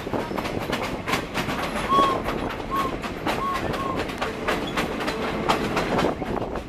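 Passenger train cars rolling along the track: a steady rumble of the wheels with irregular clicks and clatter over the rail joints. A few short squeaks come around the middle.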